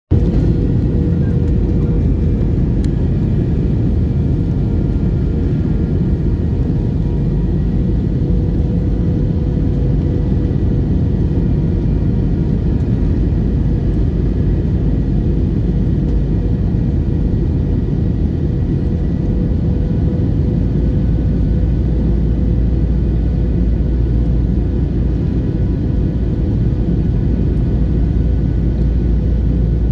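Airliner in flight heard from inside the cabin: steady engine and airflow rumble with a constant hum, the deepest part of the rumble growing slightly stronger about two-thirds of the way through.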